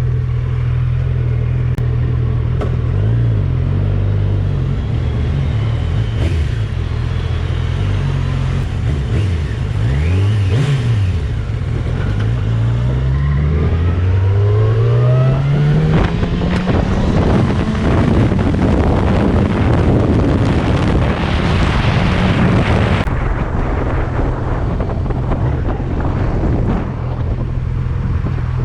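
Motorcycle engine running steadily, then revving up with rising pitch as the bike pulls away and accelerates, with rushing wind noise at speed; the wind stops suddenly and the steady engine note returns.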